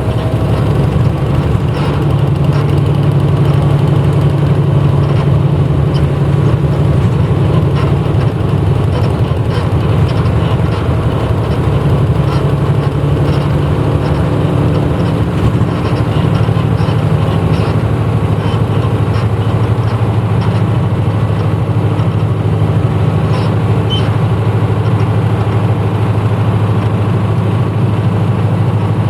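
Engine of a 1994 Hino Blue Ribbon city bus running steadily under way, heard from inside the passenger cabin. The engine note drops a little about halfway through.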